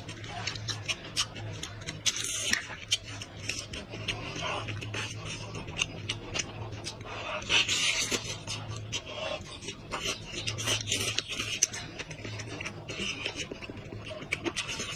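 Close-miked chewing and lip-smacking of goat meat: a dense run of small wet clicks and short rasping bursts, with no pause.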